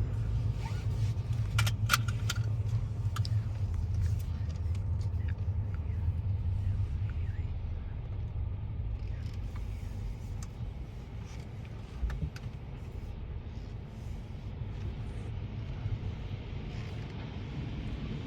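Automatic tunnel car wash running: a steady low rumble that eases off after about ten seconds. A few sharp clicks come near the start and a single knock about twelve seconds in.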